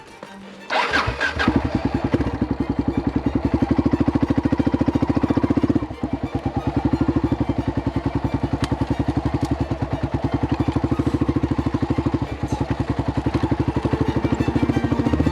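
Yamaha motorcycle engine starting about a second in, then running with an even, rapid pulse under load through soft sand. It dips briefly about six seconds in and gets louder near the end.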